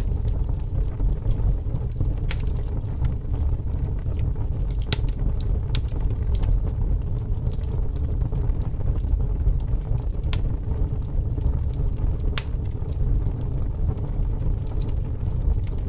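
Fire burning: a steady low rumble with scattered sharp crackles and pops, a handful of them standing out.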